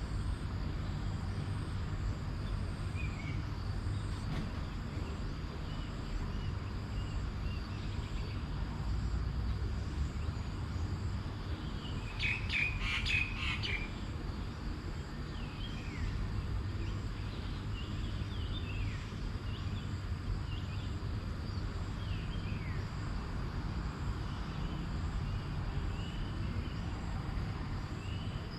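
Birds chirping in a natural outdoor ambience: short, falling calls scattered throughout, with a louder cluster of rapid chirps about halfway through. A steady low rumble and a faint, even high hum run beneath.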